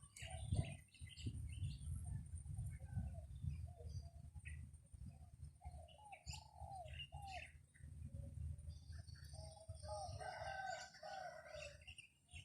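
Wind rumbling on the microphone, with birds calling in short repeated notes and a cockerel crowing about ten seconds in.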